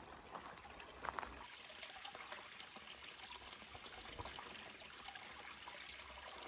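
Faint, steady trickling of running water, like a small stream or water flowing into a pond.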